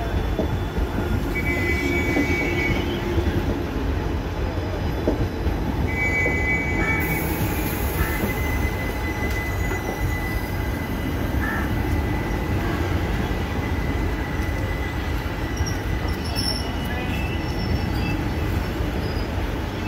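Indian Railways passenger train coaches rolling past the platform with a steady rumble, their wheels squealing in a thin high tone: two short squeals in the first seven seconds, then one long unbroken squeal.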